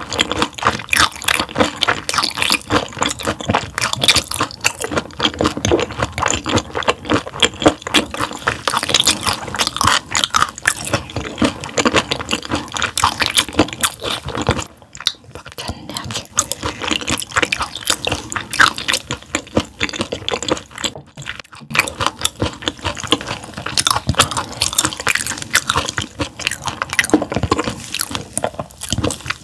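Close-miked chewing of gizzard shad, a dense run of crisp crunching and wet mouth sounds, with short pauses about 15 and 21 seconds in.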